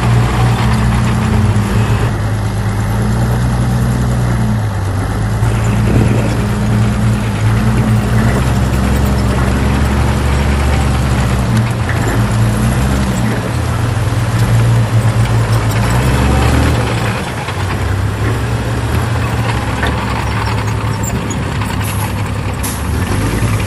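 Heavy diesel earthmoving machinery running under load, its engine note shifting up and down several times and dropping lower about two-thirds of the way through.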